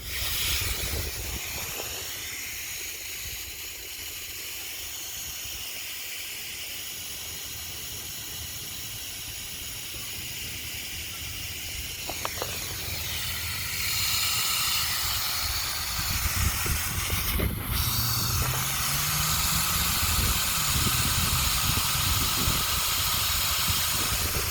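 Steady hiss of water under pressure in a sprinkler irrigation system, growing louder about 14 seconds in, over a low rumble.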